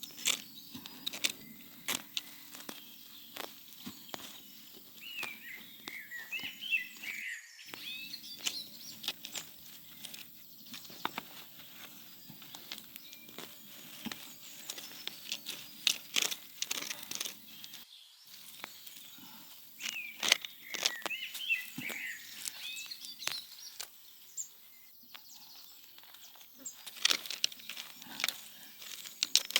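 Outdoor sounds: scattered sharp clicks and knocks of handling or movement, with a bird singing a short warbling phrase twice, about five seconds in and again about twenty seconds in.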